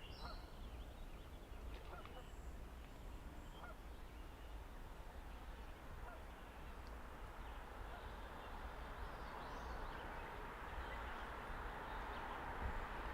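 Geese honking faintly now and then over a low outdoor hiss that grows a little louder in the second half.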